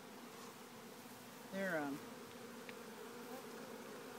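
A honeybee swarm buzzing in a steady hum; the beekeeper takes them for New World Carniolans. A brief falling voice sound about a second and a half in.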